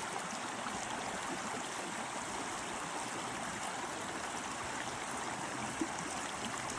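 Running water of a stream rushing steadily over rocks, an even, unbroken sound.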